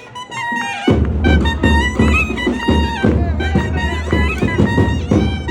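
Nadaswaram and thavil temple music: a loud, reedy double-reed melody with sliding, ornamented notes over rapid drum strokes, the drumming coming in strongly about a second in.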